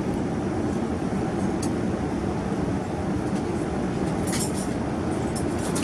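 Steady rushing cabin noise aboard a Boeing 787 airliner, with a few light clinks about a second and a half in and again near the end.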